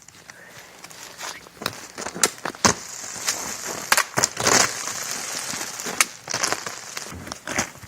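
Ice-crusted snow from freezing rain crunching and cracking: an irregular run of sharp cracks and crackles, thickening into a denser hissing crunch about halfway through.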